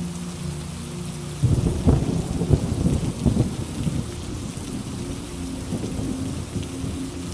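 Steady rain with a rumble of thunder that breaks in suddenly about a second and a half in, is loudest over the next couple of seconds and then dies away.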